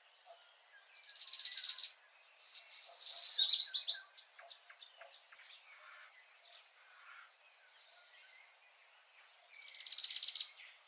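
A songbird singing in fast, high trilled phrases: one about a second in, a longer phrase ending in a quick downward flourish around four seconds, and another trill near the end, with faint scattered chirps between them.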